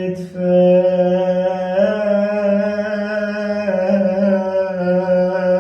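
A young man singing an Iraqi mawwal-style lament without accompaniment, holding one long drawn-out vowel that steps up in pitch about two seconds in and eases back down near four seconds.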